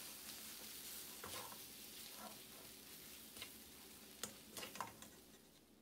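Faint sizzle of a pork-and-egg stir-fry in a steel wok, slowly dying away, with a few short clicks and scrapes of a metal spatula against the pan.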